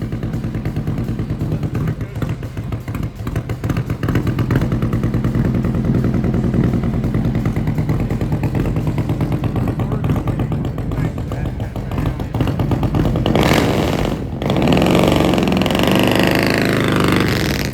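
Harley-Davidson V-twin motorcycle engine running under way, with rapid firing pulses throughout. Near the end it gets louder and its pitch swoops up and down.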